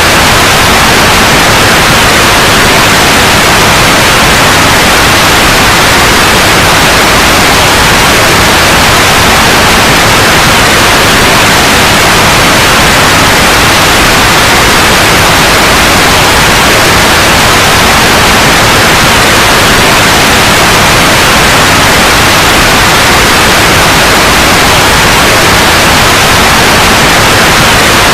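Steady, loud white noise: an even, unbroken hiss that does not change.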